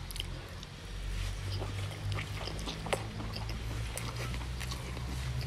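A person chewing goat meat with open-mouthed smacking and small wet clicks, over a low steady hum that comes in about a second in.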